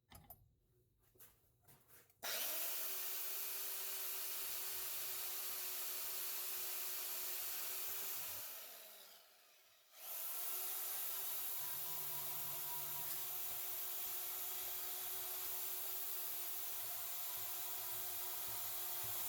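An electric power tool switched on about two seconds in, its motor spinning up and running steadily with a loud hiss of work, then winding down around eight seconds and switched on again about ten seconds in, running steadily after that.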